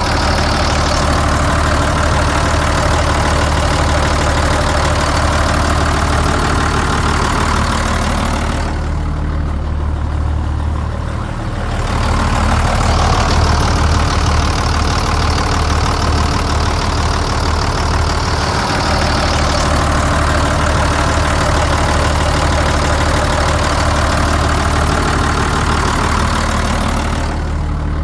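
1996 Mack CS200P truck's 180 hp diesel engine idling steadily with a low, even hum. The higher hiss drops away for a few seconds about nine seconds in and again near the end.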